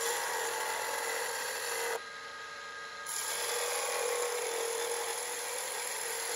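Gouge cutting a cove downhill toward the axis in spindle-grain wood spinning on a lathe: a steady hiss of shavings over the lathe's steady hum. The cut stops about two seconds in and starts again a second later.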